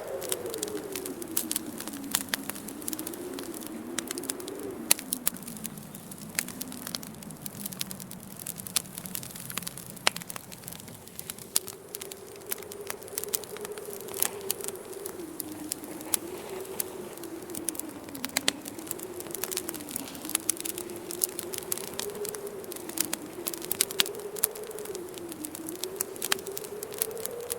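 Wood fire crackling with frequent sharp pops, over a low moaning wind whose pitch slowly wavers up and down.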